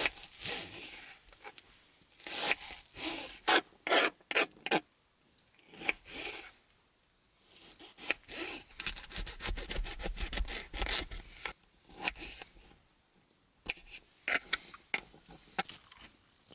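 Vegetables being prepared for cooking: irregular knife cuts and scraping on a cutting board, with brief quiet gaps.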